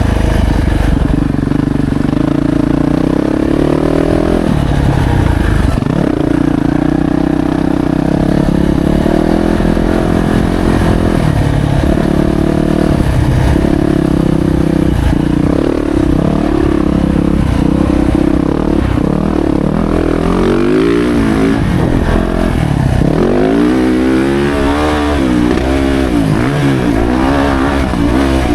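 A 2025 Yamaha YZ450F's single-cylinder four-stroke engine is ridden hard on a motocross track. The revs climb and drop again and again, with quick throttle blips in the last third.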